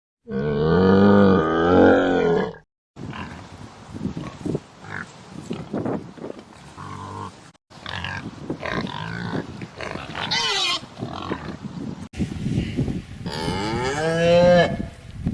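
Cattle mooing in several short clips cut together. The first and last hold long, deep calls, with shorter grunting calls in the clips between.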